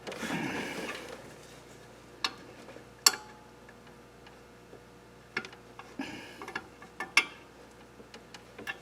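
Sharp, scattered metal clicks and taps a second or more apart from small engine parts and tools being handled, after a brief scraping rustle at the start.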